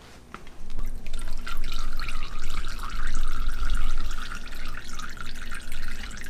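Fork oil pouring out of a Showa motorcycle fork tube and splashing into a drain pan. It begins about a second in and runs as a steady stream, then stops near the end.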